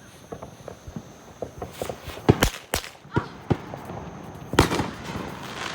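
Consumer firework going off after being lit: scattered small crackles, then a string of sharp loud bangs, the loudest a little over two seconds in and again near the end.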